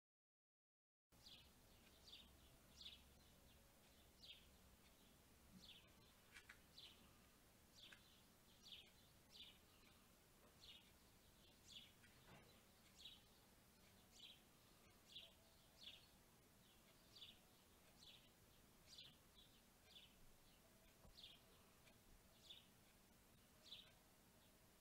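A bird chirping over and over, short high notes about once a second, faint over a steady outdoor background hiss. The sound is completely silent for about the first second before it starts.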